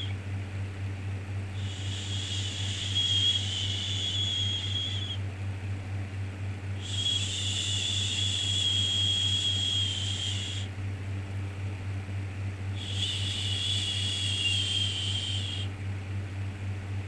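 Repeated drawn-out shushing "shhh" sounds, three in a row, each lasting three to four seconds with short pauses between, over a steady low hum.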